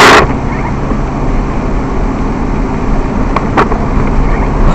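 Steady car engine and road noise picked up by a dashcam, with a loud burst right at the start and two short clicks about three and a half seconds in.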